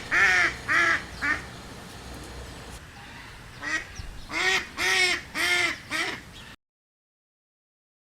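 Duck quacking in a series of short calls: a few at the start, then a run of about five more from about three and a half seconds in, after which the sound cuts off abruptly.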